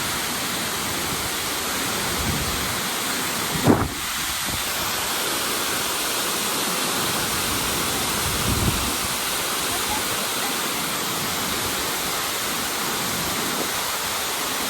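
Tortum Waterfall's falling water, a steady dense rush. One short low thump comes just before four seconds in, with a smaller one a few seconds later.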